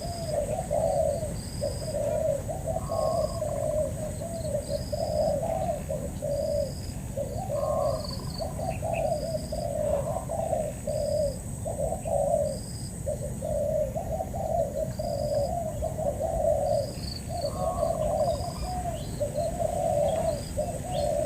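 Spotted doves cooing over and over, their phrases following and overlapping almost without a break. Short high chirps repeat every second or so, over a steady high-pitched whine.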